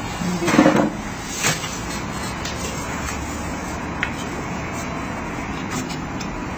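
Single-chamber vacuum packing machine running with a steady mechanical noise. A short loud rush comes about half a second in, followed by a knock about a second later and a faint tick at about four seconds.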